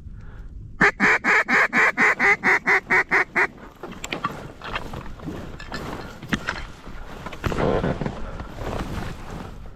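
Mallard hen-style quacking: a loud series of about a dozen quacks at roughly four a second, followed by quieter, scattered calls.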